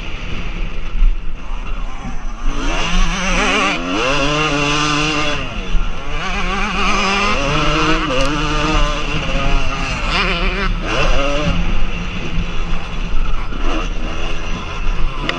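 Motocross bike engines revving, their pitch rising and falling again and again as the riders accelerate and shift, over a constant low rumble.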